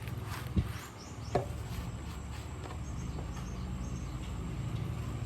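Quanchai D15 diesel engine running steadily with an even low pulsing beat, with two sharp knocks about half a second and a second and a half in.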